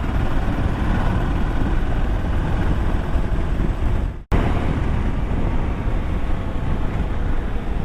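Motorcycle riding at speed: steady engine drone mixed with heavy wind noise on the camera microphone. The sound cuts out for an instant about four seconds in, then resumes unchanged.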